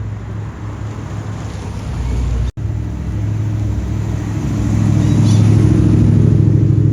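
A car engine running steadily with a low, even tone, growing louder about halfway through, with a brief break about a third of the way in.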